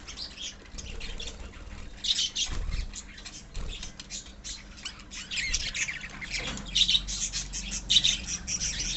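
A colony of lovebirds chattering continuously, with many overlapping shrill squawks. The squawks are loudest around two seconds in and again in the last few seconds.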